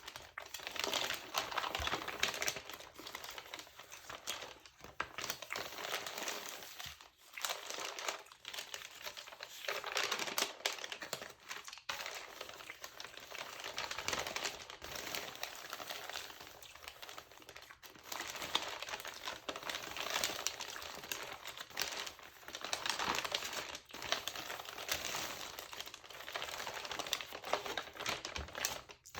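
Crinkling of a textured glossy magazine's paper, handled close to the microphone: a dense crackle that goes on with a few brief pauses.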